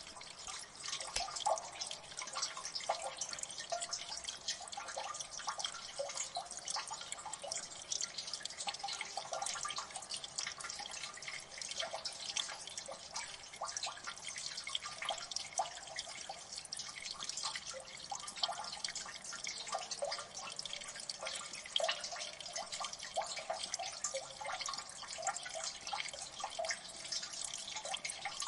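Water dripping and splashing in a gully: many quick, irregular drops, some louder than others, over a steady faint trickle.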